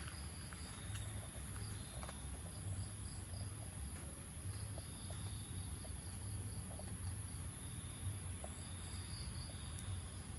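Insects chirring steadily in the countryside after rain: a continuous high-pitched buzz with a quicker pulsing chirp beneath it, over a low rumble.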